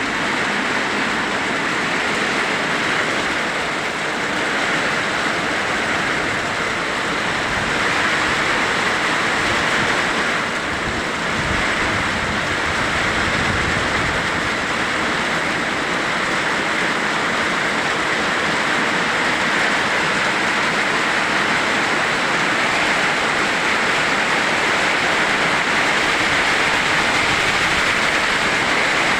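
Heavy rain pouring down steadily in a summer rainstorm, a dense even hiss. A brief low rumble swells and fades near the middle.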